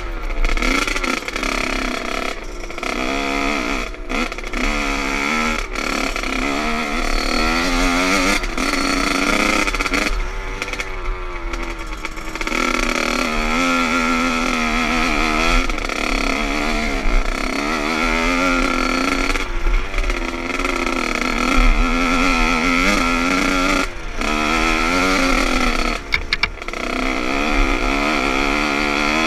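Motocross bike engine revving up and down over and over as it is ridden, with a steady low rumble underneath.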